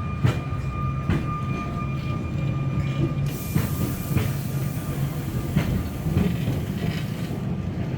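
Sóller electric tram running on its track: a steady rumble with wheels knocking over rail joints, a thin steady wheel squeal over the first few seconds, and a hiss from about three to seven seconds in.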